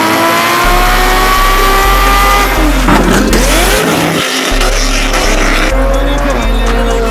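High-performance car engines revving hard: one climbs steadily in pitch for about two and a half seconds, then the pitch sweeps down and back up around three seconds in. A steady bass beat from backing music runs underneath.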